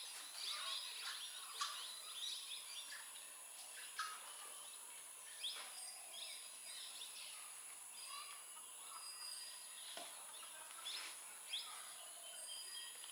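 Birds chirping and calling outdoors, many short, quick calls, with a steady high-pitched whine behind them.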